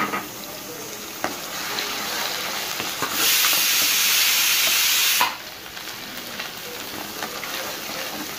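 A paste sizzling in hot ghee and oil with whole spices in a pan, stirred with a steel ladle that clicks and scrapes against the pan. About three seconds in, a much louder hiss comes in for about two seconds and cuts off suddenly.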